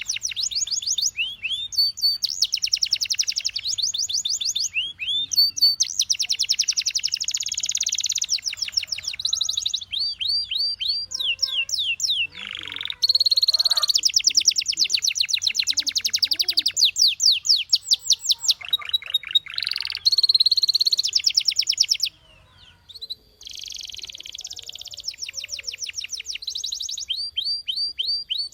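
Canary singing a long, continuous song of rapid trills and repeated whistled notes, the phrases changing every second or two, with a brief pause a little past the middle.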